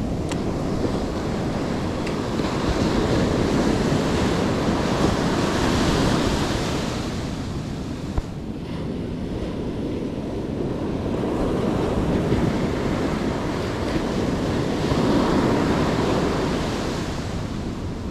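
Surf washing onto a beach, with wind buffeting the microphone. The wash swells up twice and eases off briefly in between.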